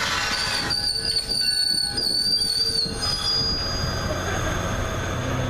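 Passenger train's wheels squealing against the rails as it passes: a high, wavering squeal from just after the start to about three seconds in, over the steady rumble and hiss of the moving train.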